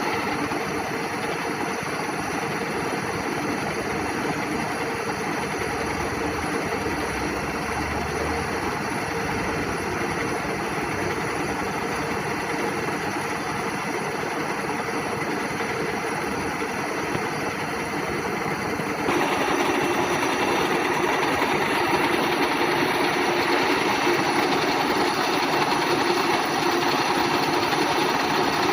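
WMW Heckert GFLV 250 x 2000 thread milling machine running: a steady machine hum carrying several steady tones, which steps up in level about two-thirds of the way through.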